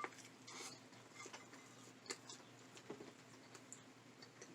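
Faint chewing with the mouth open: soft, irregular wet clicks and smacks over near silence.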